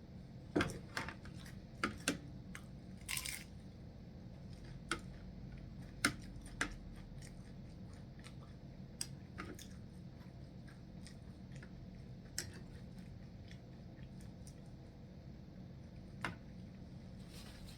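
Close-up chewing and crunching of crisp fried tortilla, the nacho chips or taco shell breaking between the teeth: a quick run of crunches in the first few seconds, then single crunches every few seconds. A steady low hum runs underneath.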